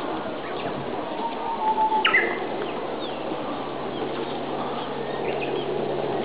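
Japanese bush warbler (uguisu) singing: a held low whistle, then a louder, quick, higher phrase about two seconds in, with scattered short bird chirps over a steady background noise.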